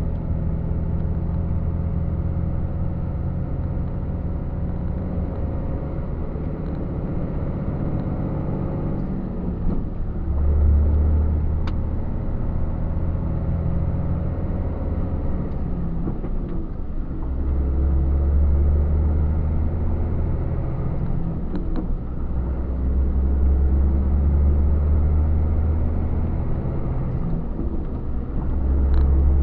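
Truck engine and road noise while driving: a steady low drone that swells and changes pitch a few times along the way.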